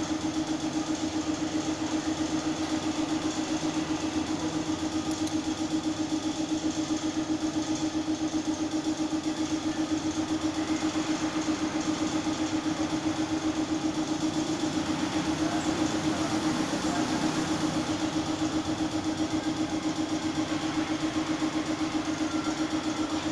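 Car engine idling steadily with a rapid, even pulse.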